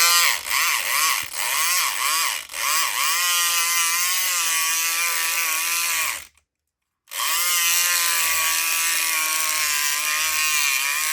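Southord E500XT electric pick gun's motor buzzing as it is worked in a Best lock, failing to open it. The pitch dips and recovers several times at first under changing load, then holds steady. It stops for about a second midway and then runs again.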